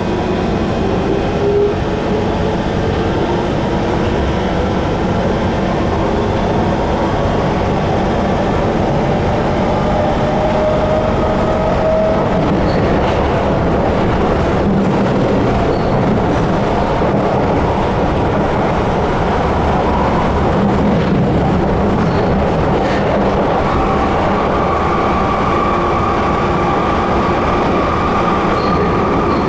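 C151 MRT train heard from inside the car, its traction motor whine rising in pitch over the first twelve seconds or so as the train picks up speed, then steady running noise with wheels on rail. A higher steady whine comes in about three-quarters of the way through. This car is noted for its whiny motor.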